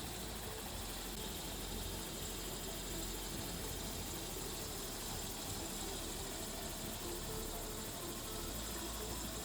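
Steady faint hiss with a low hum underneath, even throughout.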